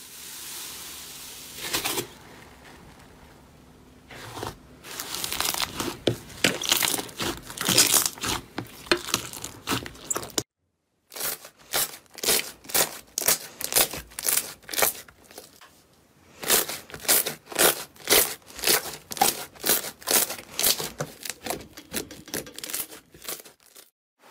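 Slime being squeezed and stretched by hand, giving quick runs of crackling, popping clicks. The clicking breaks off for a moment about ten seconds in, then comes back in pulsing clusters.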